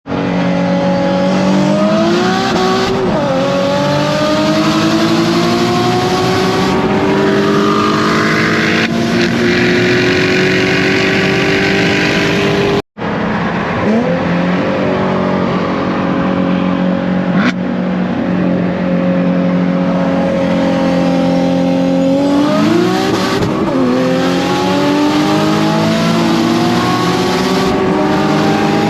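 Sports car engine at wide-open throttle, pulling hard through long high gears. Its pitch climbs steadily for many seconds and drops back at each upshift, about three seconds in and again near the end.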